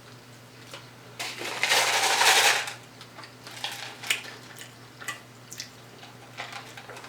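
Eating and handling food at the table: one loud rough noise lasting about a second and a half, starting about a second in, then scattered small clicks and taps.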